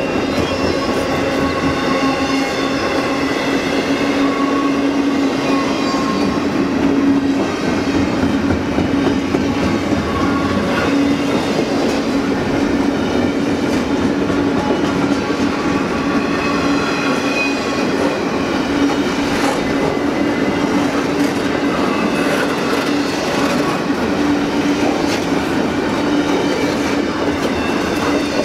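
Cars of a Norfolk Southern intermodal freight train rolling past steadily: wheels clacking over the rails under a constant low hum, with faint high-pitched wheel squeal now and then. The sound cuts off suddenly at the end.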